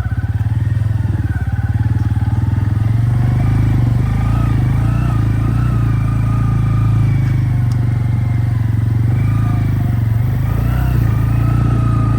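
Bajaj Pulsar N160 motorcycle's single-cylinder engine running steadily under way, ridden over an unpaved road, with a faint wavering whine above the engine note.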